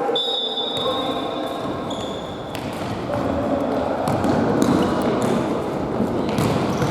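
Futsal ball being kicked and bouncing on an indoor court, several sharp knocks echoing in a large sports hall over a steady background of hall noise and voices. A thin, high steady squeak sounds in the first two seconds.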